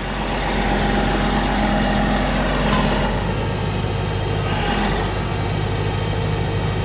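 Diesel engine of a self-loading logging truck running steadily.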